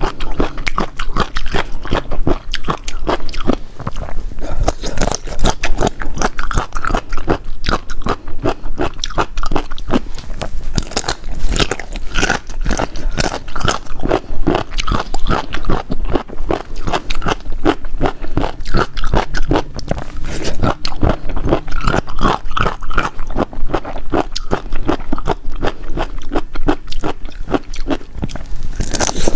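Close-miked chewing and crunching of spicy seafood: a dense, continuous run of crisp bites, wet chewing and scraping.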